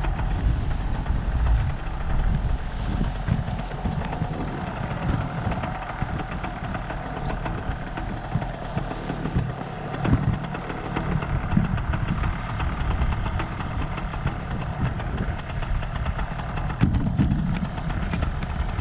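Paramotor's small engine running steadily, with wind buffeting the microphone in irregular gusts.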